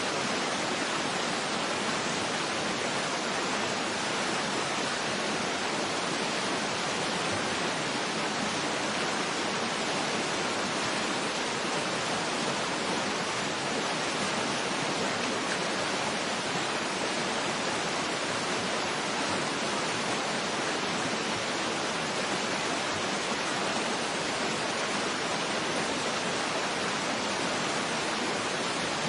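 Waterfall rushing in a steady, unbroken hiss, with no separate splashes or changes.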